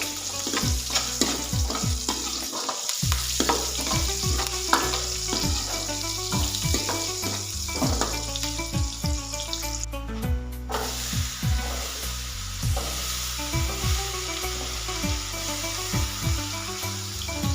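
Food sizzling as it fries in a pan and is stirred, with background music. The sizzle drops out briefly about ten seconds in.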